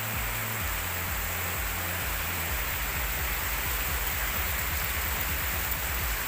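Heavy rain with strong wind: a steady, even hiss of rain with a low rumble of wind buffeting the microphone underneath.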